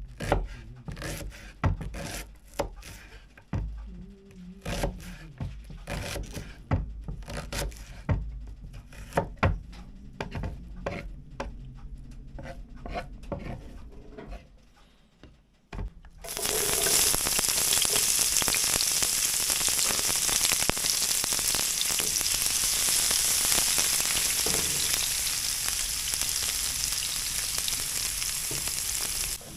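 Scattered clicks and knocks of pans and utensils being handled. About halfway through, food hits a hot oiled pan on a wood-burning cook stove and a loud sizzle starts suddenly, then holds steady.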